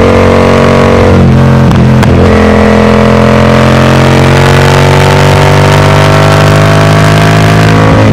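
Yamaha MT-07's 689 cc parallel-twin engine running loud through a Mivv Delta Race full exhaust system. After a brief break in the note about a second in, the pitch climbs slowly and steadily as the bike pulls under load, then drops back near the end.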